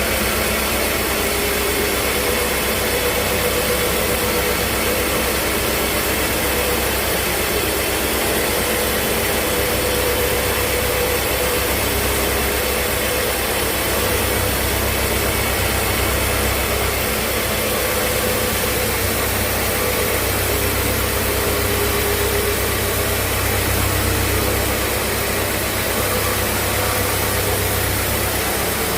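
Sawmill machinery running steadily: a constant motor drone with a deep hum, a broad hiss and a faint whine that wavers up and down.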